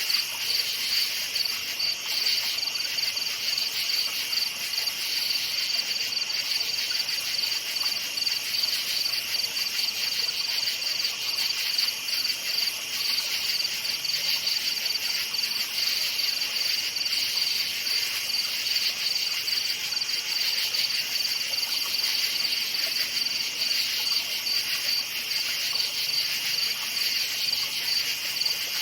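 Crickets chirping continuously in a steady, fast-pulsing high-pitched chorus.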